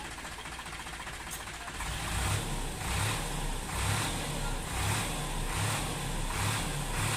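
Heavy diesel engine running. From about two seconds in, its sound swells and falls in a regular pulse a little more than once a second.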